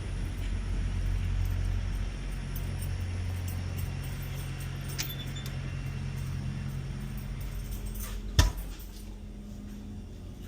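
Semi truck's engine running, heard from inside the cab as a steady low hum, with one sharp knock a little past eight seconds in.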